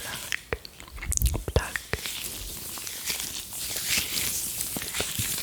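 Close-miked ASMR mouth sounds: a quick run of wet tongue clicks and lip pops ("plug and flick"), with a stretch of soft hissing noise in the middle.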